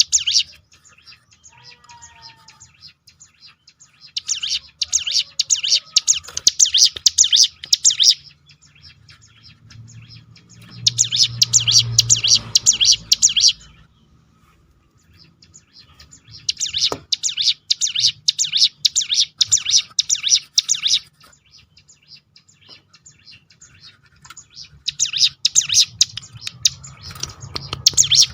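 Ciblek gunung prinia singing its rapid rattling 'tembakan' roll: four bursts of fast, high, repeated notes, each a few seconds long, separated by short pauses.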